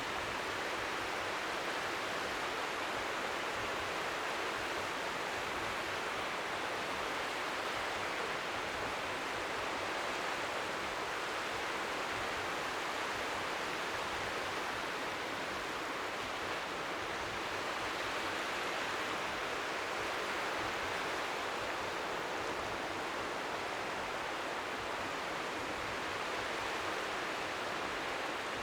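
Strong wind by the sea making a steady, even rushing noise, with the gently lapping waves faint beneath it.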